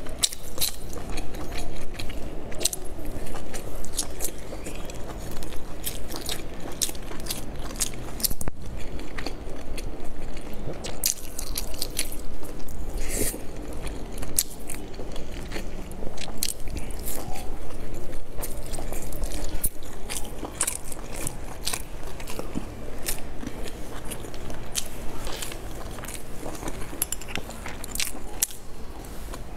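A person chewing and biting pan-fried dumplings close to a lapel microphone, with many short, sharp mouth clicks throughout.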